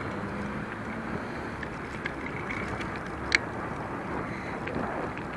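Steady wind rush on the microphone with road noise from a bicycle ride, and one sharp click a little past the middle.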